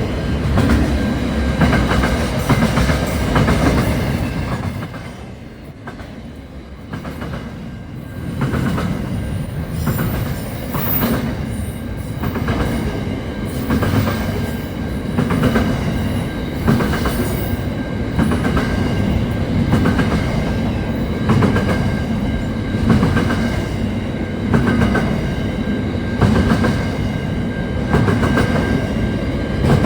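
Train running along the rails, its wheels clicking rhythmically over the rail joints with a steady rumble and a thin high whine. It is quieter for a few seconds about five seconds in.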